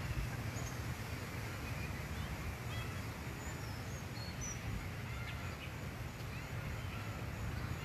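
Birds chirping in short, high calls scattered throughout, over a steady low rumble of outdoor background noise.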